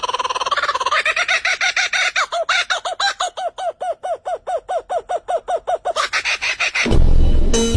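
A bird calling: a held note, then a fast run of short repeated chirping notes, about six a second, for several seconds. A sudden loud, deep sound breaks in near the end.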